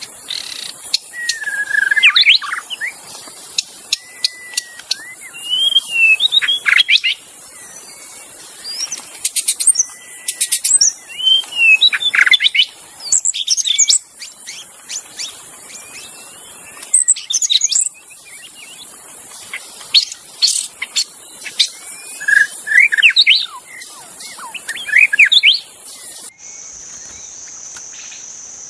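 White-rumped shama singing in bursts of varied whistled phrases and sharp clicking notes, over a steady high insect hiss. About 26 seconds in, the song stops and a steady, even insect trill remains.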